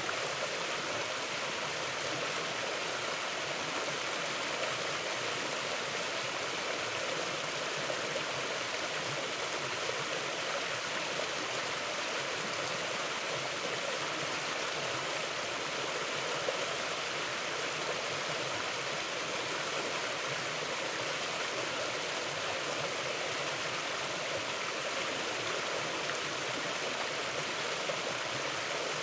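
Mountain river flowing over rocks: a steady, even rush of running water.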